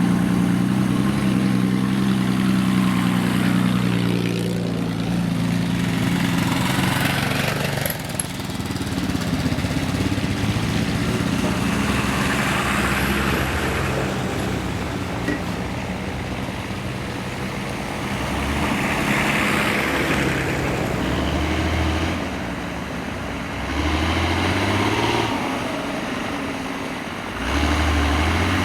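Vehicle engine idling steadily, then the engine sound shifting, with a few short low rumbles in the last third.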